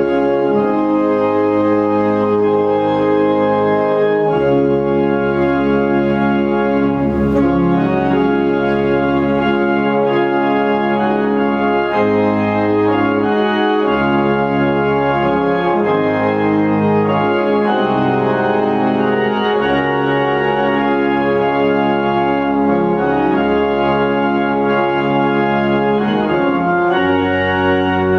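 Organ playing a slow hymn in sustained chords that change every second or two.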